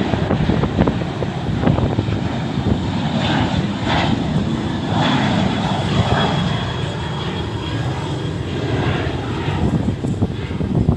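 Jet airliner's engines running at takeoff power, a steady loud rumble with a faint high whine, with gusty wind buffeting the microphone.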